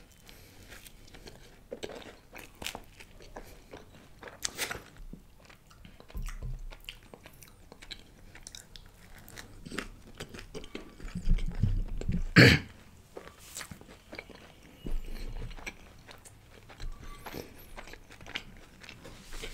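Close-miked biting and chewing of a slice of buttered bread loaf: soft crunches and wet mouth clicks, with one louder crunch a little past the middle.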